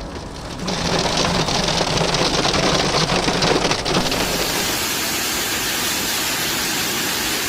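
Hailstorm downpour: a dense pelting of hail and rain, with a low steady hum under it at first. About four seconds in it changes to a steadier, brighter hiss of heavy rain.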